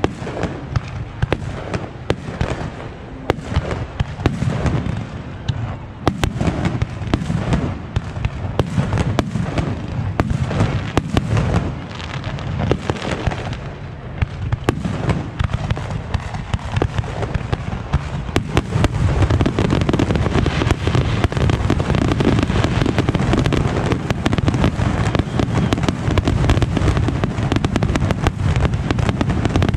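Fireworks going off: many sharp bangs and crackles in quick succession, building into a dense, continuous barrage for the last third.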